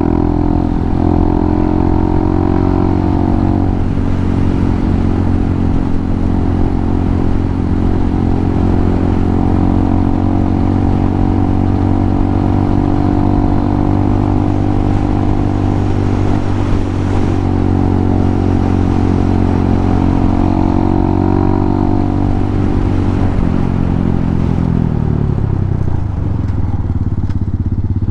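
Hawk 250 dual-sport motorcycle's single-cylinder engine running at a steady cruise. About 22 seconds in the engine note falls away as the bike slows, then picks up again at the very end.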